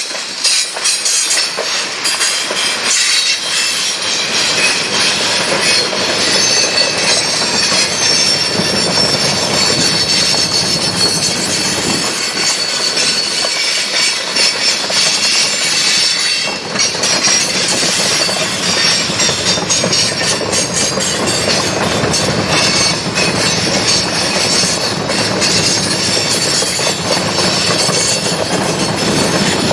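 Freight train cars rolling past steadily, their steel wheels squealing against the rails with a clickety-clack over the rail joints.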